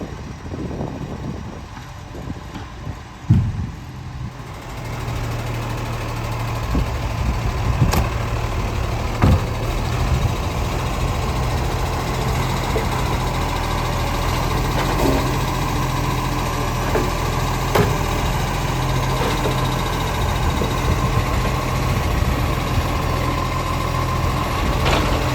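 Garbage truck engine running steadily at low revs, coming in about four seconds in, with a few sharp knocks over it.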